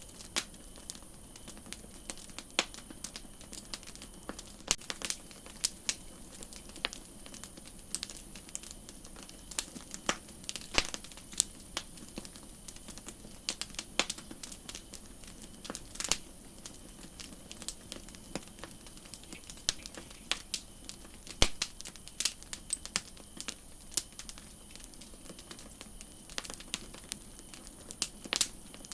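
Wood campfire crackling: irregular sharp pops and snaps, a few louder than the rest, over a steady hiss. A high hiss in the background grows louder about five seconds in and drops back about twenty seconds in.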